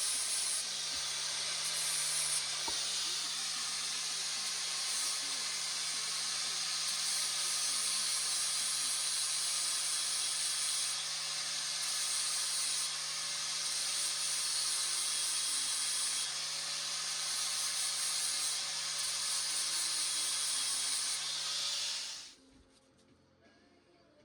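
A loud, steady hiss with a faint low hum under it, cutting off abruptly about 22 seconds in.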